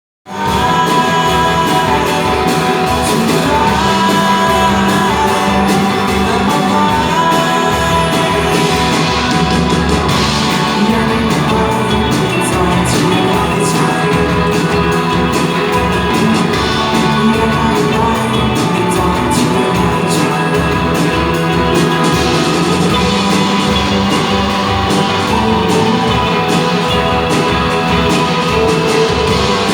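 A live rock band playing, with guitar and drums and a voice singing over them, in the echo of a large hall; the music cuts in abruptly at the start.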